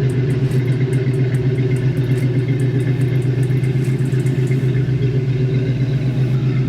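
Chevrolet Camaro engine running steadily through a new exhaust with an X-pipe and bigger tips, giving a deep, even exhaust note with no revving.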